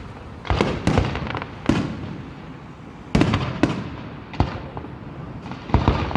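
Aerial firework shells bursting in an irregular series of sharp booms, about eight in six seconds, each with a rumbling tail of echo, quickening into a cluster near the end.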